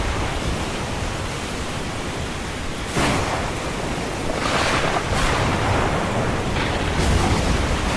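Ocean surf: a dense, steady wash of noise with a sudden surge about three seconds in and further swells of breaking water after it.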